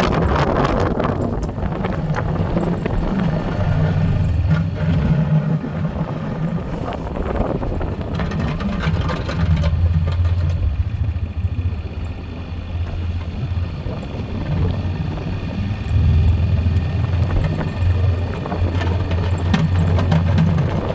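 Four-wheeler (ATV) engine running while plowing snow, its low hum swelling and easing every few seconds as the load and throttle change.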